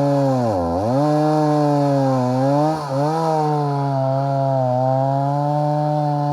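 Stihl MS 290 two-stroke chainsaw running at high revs while bucking a dry tree trunk. Its pitch sags sharply about a second in and again near three seconds as the engine bogs under load, then holds steady.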